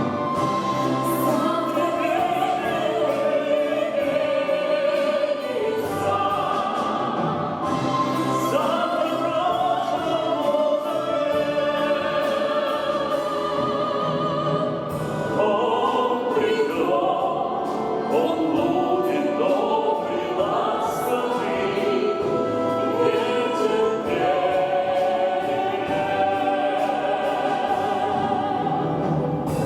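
Small mixed vocal ensemble of women and a man singing together in harmony over instrumental accompaniment, with long held, gliding notes.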